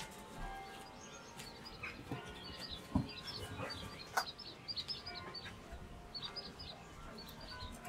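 Birds chirping in quick runs of short, high notes, with a couple of sharp taps about three and four seconds in.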